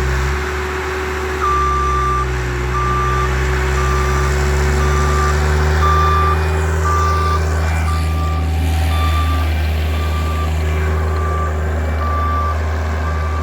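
Bobcat loader's engine running steadily while its reversing alarm beeps at one pitch, about twice a second, starting a second or so in: the machine is backing up.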